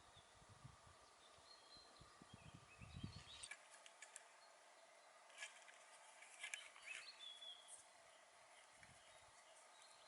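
Near silence: faint forest ambience with a few brief high bird chirps and scattered faint clicks.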